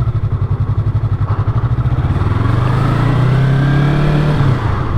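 Yamaha sport motorcycle engine running while riding, heard from the rider's position. The revs climb steadily through the middle, then dip briefly near the end before picking up again.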